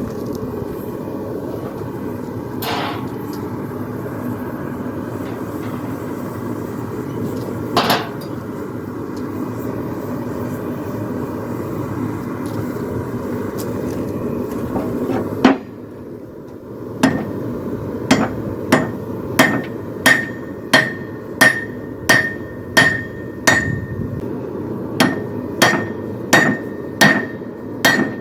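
A steady rushing noise with a couple of single knocks, then a hammer striking steel on an anvil in an even rhythm, about three blows every two seconds, each with a short ring: the poleaxe spike is being drawn out to a point by hand-forging.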